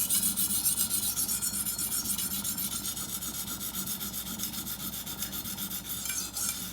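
Chef's knife blade rubbed in quick back-and-forth strokes on a coarse Washita Arkansas whetstone, several strokes a second and easing off a little toward the end. The strokes are working the heel and tip of a dull edge to raise the initial burr.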